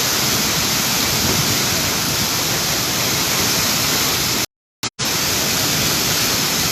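Waterfall: steady, loud rushing of falling water. The sound cuts out completely for about half a second about two-thirds of the way through.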